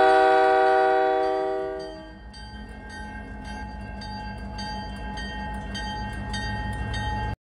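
A loud multi-note locomotive horn chord fades away over the first two seconds. Then a railroad crossing's electronic bell dings rapidly, about three times a second, over the low rumble of a passing diesel locomotive, until the sound cuts off abruptly near the end.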